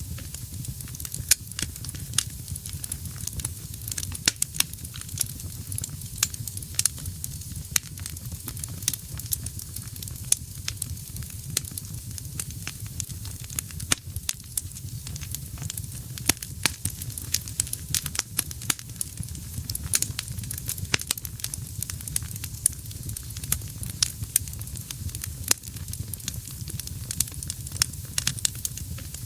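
Wood fire burning in a fireplace: a steady low rumble of flame and a hiss, with sharp irregular crackles and pops from the burning logs, several a second.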